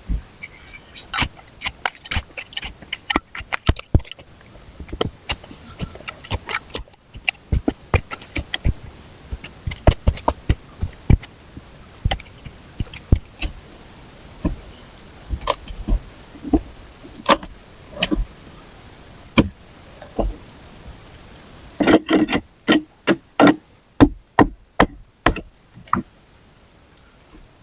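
Irregular knocks, clicks and clatter of hand work with wood and tools, with a quick run of heavier knocks, about three a second, near the end.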